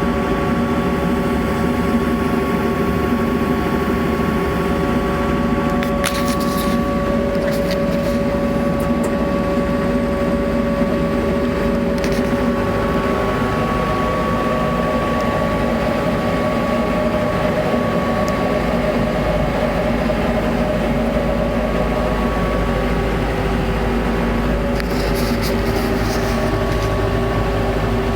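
TYM 574 tractor's diesel engine running steadily, with a few brief sharp noises about six, twelve and twenty-five seconds in. The low rumble grows stronger a little past halfway.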